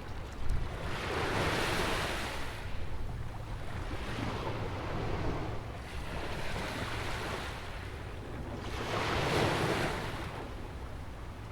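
Ocean waves breaking and washing up on a sandy beach, two strong washes about seven seconds apart with a weaker one between. Steady wind rumbles on the microphone underneath.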